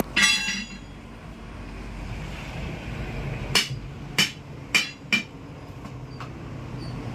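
Hammer blows on steel while a dump truck tyre is being taken off its wheel. First one clanging strike that rings briefly, then about three seconds later four sharp strikes about half a second apart.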